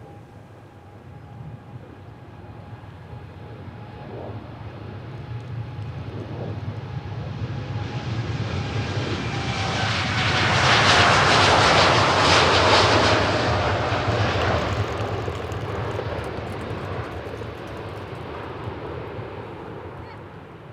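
Airliner's engines passing close by: the sound builds steadily, peaks about halfway through, then fades, with a faint whine that slowly drops in pitch.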